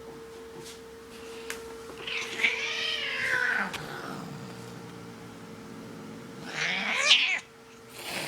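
Domestic cat yowling: one long, wavering, drawn-out call about two seconds in, then a second, shorter and louder yowl near the end that cuts off suddenly.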